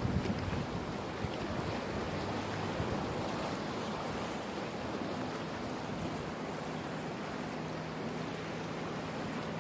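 Sea waves washing against the shore, with a faint steady low hum underneath.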